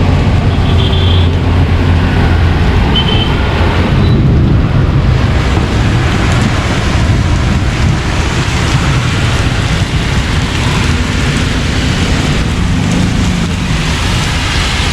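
Heavy tropical downpour mixed with road traffic: a loud, steady rush of rain and wet tyres with a low engine rumble underneath.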